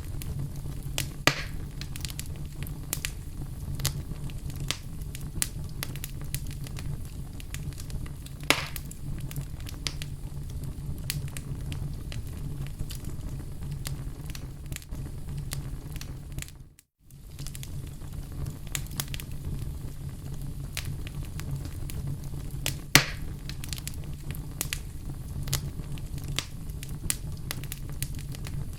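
Wood fire burning in a fireplace, crackling steadily with many small pops and a few louder snaps over a low steady rumble. The sound cuts out completely for an instant just past halfway, then carries on.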